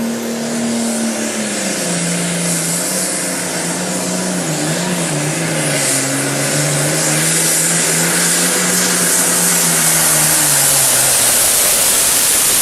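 A Super Farm class pulling tractor's turbocharged 640-cubic-inch diesel engine at full power pulling the sled. Its note drops about two seconds in and keeps sinking as the engine lugs down under the load, over a loud steady hiss, and it eases off near the end.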